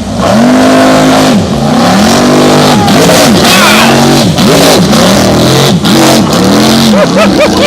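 Custom jet boat's 464 big-block V8, bored .060 over, revving hard over and over, its pitch rising and falling in repeated surges that come shorter and quicker toward the end.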